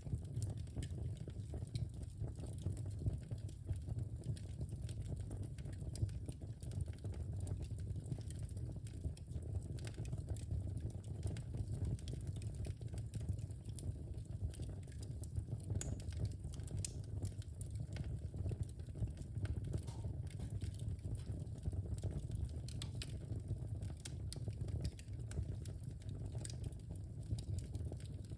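Wood fire in a fireplace crackling: many small sharp pops and snaps over a steady low rumble of burning.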